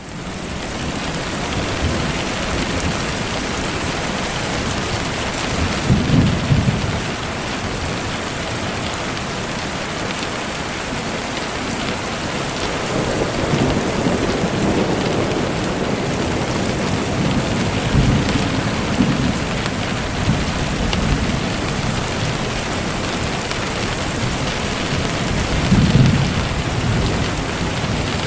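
Steady rain falling, with low rolls of thunder swelling up about six seconds in, in the middle, and again near the end.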